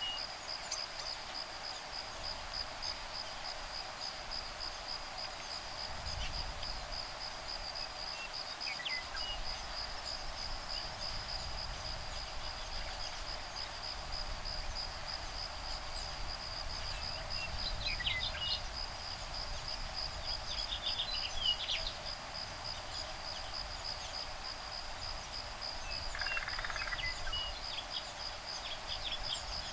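Insects trilling in a steady, rapid, high-pitched pulse throughout, with a few short bird calls scattered over the top. Breeze rumbles low on the microphone at times.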